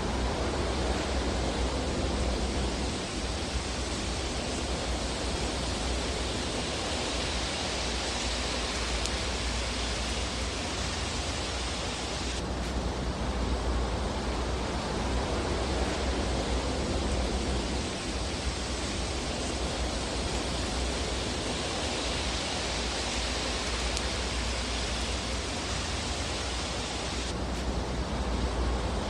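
Fireplace fire: a steady hissing rush over a low rumble, with no distinct crackles standing out. The hiss changes abruptly about twelve seconds in and again near the end.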